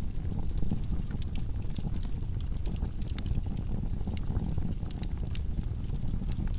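Log fire burning in a fireplace: a steady low rumble of flames with many small crackles and pops from the burning wood.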